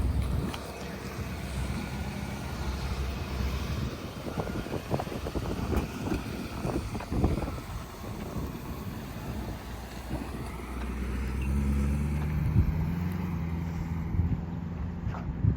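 1966 Ford Mustang engine running. Its low, steady note is strongest at the start and again from about eleven seconds in, and scattered clicks and knocks are heard in between.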